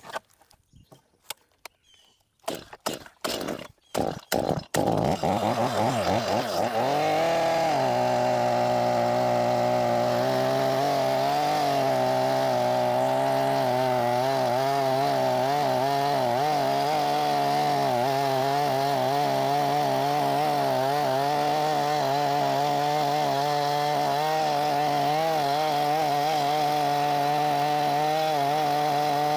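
Small Stihl chainsaw: a few knocks at first, then the two-stroke engine starts about five seconds in and quickly revs up to full throttle. It holds there with the pitch wavering slightly as the chain cuts into a tree trunk.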